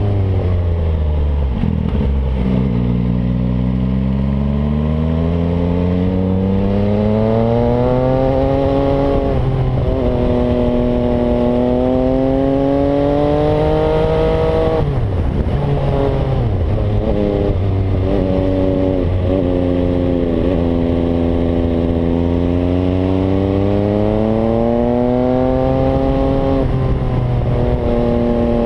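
MV Agusta Brutale 800 three-cylinder engine through its Zero exhaust, revving up and dropping back over and over as the bike is ridden hard, the pitch climbing with each pull and falling at each gear change or roll-off.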